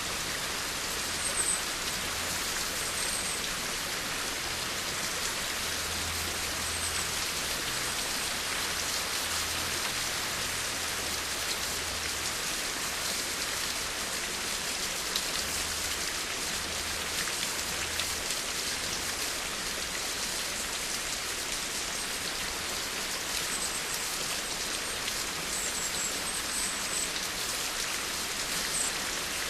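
Steady rainfall: a dense, even patter of raindrops that holds without let-up.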